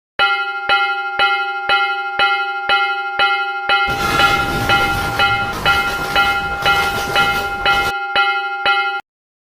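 Railway level-crossing warning bell ringing at about two strokes a second. From about four seconds in, a passing train's rushing noise is heard over the bell for roughly four seconds, and the bell cuts off abruptly near the end.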